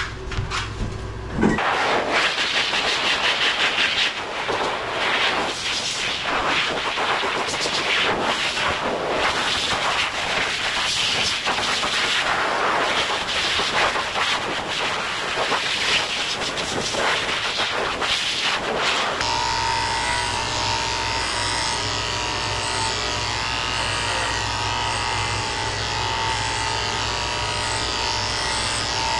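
An uneven rushing noise for most of the first two-thirds. About 19 seconds in, a small electric grooming tool starts and runs steadily, with a low hum and a thin high whine.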